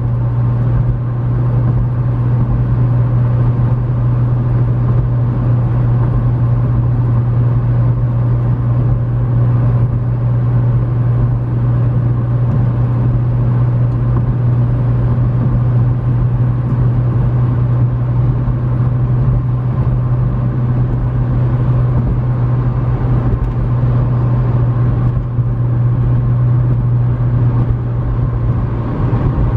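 McLaren 650S Spyder's twin-turbo V8 cruising at steady highway speed, heard from inside the cabin: a constant low drone over tyre and road noise, which wavers briefly near the end.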